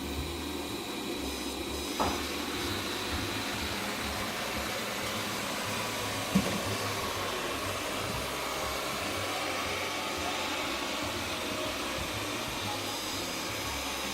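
Xiaomi Mi robot vacuum cleaner running steadily with a whirring fan and a faint high whine, resuming its cleaning. Two short knocks stand out, about two and about six seconds in.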